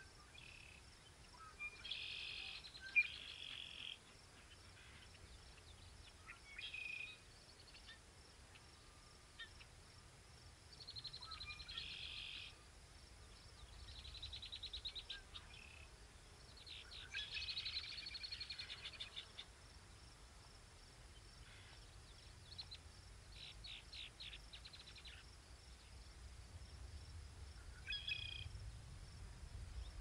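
Small birds chirping and trilling in short bouts, faint, over a steady low background rumble.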